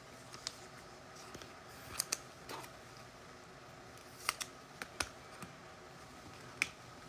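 Trading cards being handled on a table: a scattering of light clicks and taps as the cards are slid and flicked, with two close pairs about two and four seconds in.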